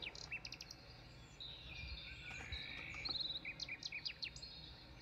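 Birds chirping faintly: short high chirps and whistled glides, with a quick trill of repeated notes about three seconds in, over a low steady background hum.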